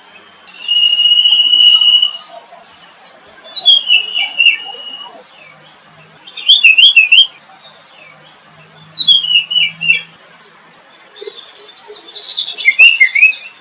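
Songbird song in separate phrases a few seconds apart: a held whistle, several quick falling phrases, and a fast trill near the end.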